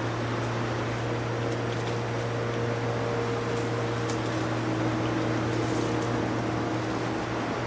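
A steady low mechanical hum with a few faint ticks over it.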